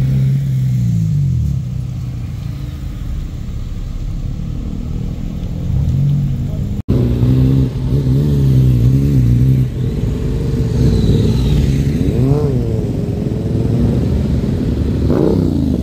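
Car engines running close by as a line of cars creeps along: a steady exhaust rumble whose pitch wavers, with short throttle blips that rise and fall near the middle and near the end. The sound cuts out for an instant about seven seconds in.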